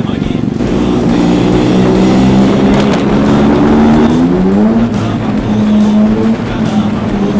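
Adventure motorcycle engine accelerating: its pitch climbs steadily, drops back at a gear change about five seconds in, then holds steady, with music playing along.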